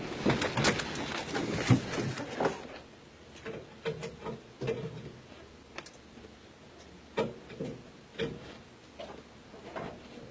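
Vehicle noise fading out about two and a half seconds in, followed by scattered small clicks and knocks.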